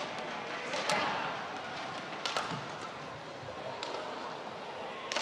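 Badminton rackets striking a shuttlecock in a rally: sharp smacks about a second and a half apart, over a steady crowd murmur that swells after a hard hit about a second in.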